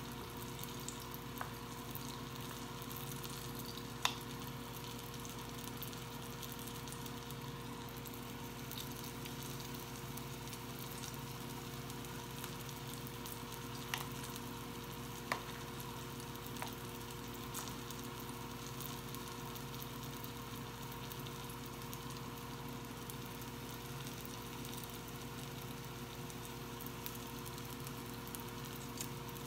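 Spoonfuls of gram-flour fritter batter frying in shallow oil in a frying pan, a steady soft sizzle, under a steady low hum. A few light clicks of a spoon on the pan and batter bowl, about 4 s in and around 14 to 17 s.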